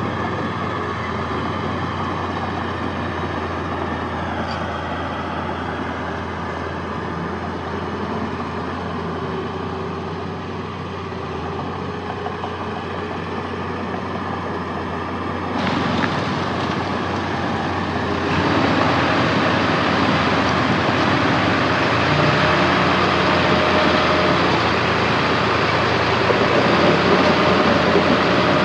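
Heavy diesel engines of earthmoving machinery running steadily. A little over halfway through the sound changes abruptly and then grows louder.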